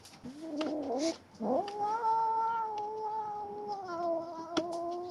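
A kitten yowling: a short wavering call, then one long drawn-out yowl held nearly level that drops a little in pitch about four seconds in, with a few sharp clicks. This is the possessive yowl of a kitten guarding its catch from the other kittens.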